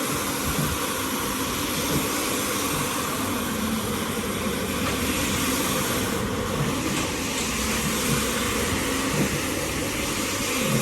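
A cleaning machine running steadily, a constant hiss-like noise with a low steady hum beneath it.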